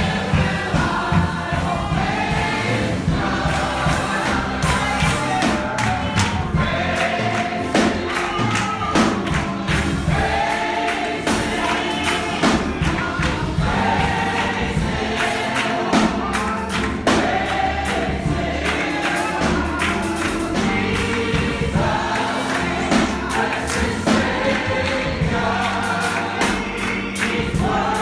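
A church congregation singing a gospel song together, with a steady beat of claps or percussion under the voices.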